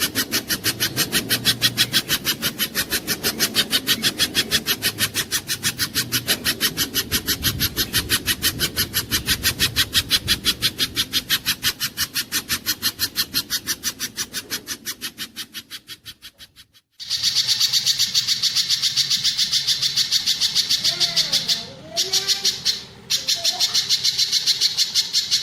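Spiderhunter (pijantung gunung) song from a bird-training recording: a rapid, evenly repeated chirping, about seven notes a second. It fades out at about two-thirds of the way through, breaks off briefly, then comes back louder and higher.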